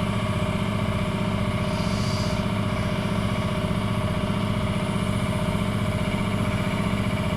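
An engine idling steadily with an even pulse, running throughout.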